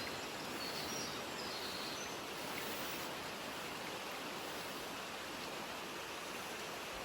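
Steady, even rushing of a mountain stream, with a few faint high bird chirps in the first second or so.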